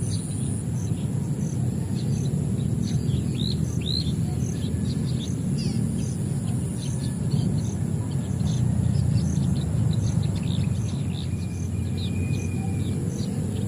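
Many small birds chirping and tweeting in short calls, over a steady high insect drone with a regular high pulse about three times every two seconds. A constant low rumble runs underneath.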